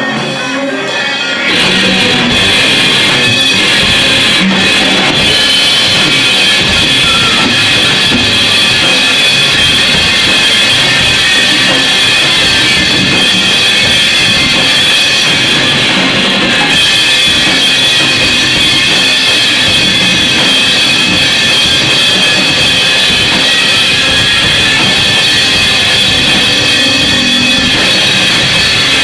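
Loud, dense noise music with drumming: a harsh wall of sound that jumps up in loudness about a second and a half in and then stays steady, with a bright, piercing high band over it.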